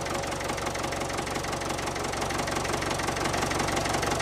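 Small engine running steadily with a fast, even pulsing beat.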